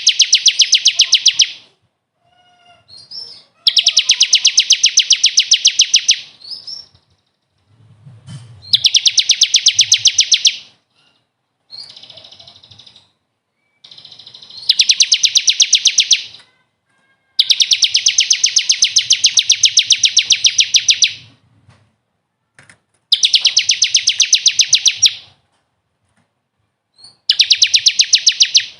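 Songbird 'masteran' tutor recording: a bird sings fast, even trills of rapidly repeated notes in bursts of two to three seconds, about seven times, with short pauses between.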